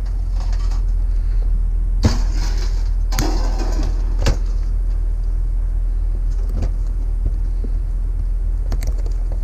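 A steady low rumble throughout, with a few sharp knocks and a short clatter about two to four seconds in.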